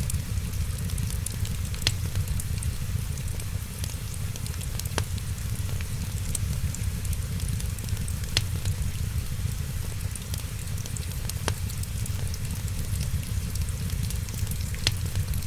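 Wood fire in a fireplace crackling: a steady low rumble with a light hiss, scattered small crackles and a handful of sharper pops every few seconds.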